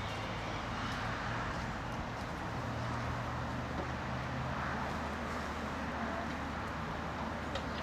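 Diesel locomotive engine running with a steady low note.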